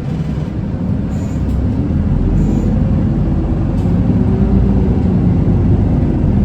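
Interior sound of an Isuzu Erga city bus's four-cylinder diesel pulling away from a stop: engine and drivetrain rumble building up as the bus accelerates, getting louder about two seconds in.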